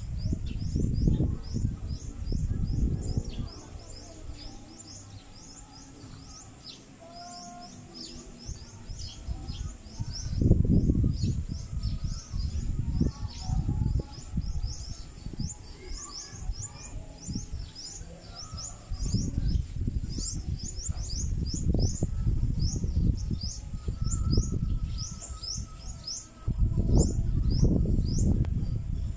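Many small birds chirping in quick, short, high-pitched falling notes, several a second, without a break. Bursts of low rumbling noise on the microphone come and go and are the loudest sound at times.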